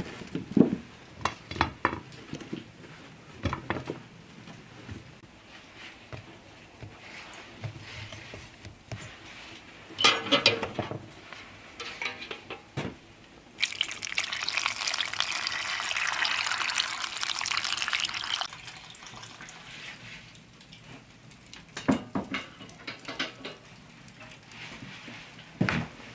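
Kitchen work sounds: scattered knocks and clinks of utensils and dishes. About fourteen seconds in, liquid is poured or runs steadily for about four seconds.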